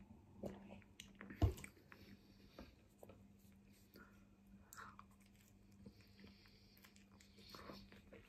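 Faint close-up mouth sounds of a person eating a chicken shawarma wrap: chewing, biting and small wet clicks. A single sharp knock about one and a half seconds in is the loudest sound.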